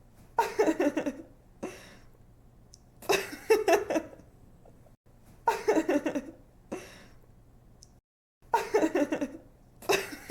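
A young woman's giggling laugh: quick runs of breathy ha-has in bursts a few seconds apart, the same laugh clip looped over and over.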